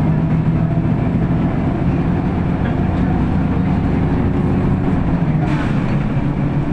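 City bus on the move, heard from inside: a steady low engine drone with road noise, and a brief hiss about five and a half seconds in.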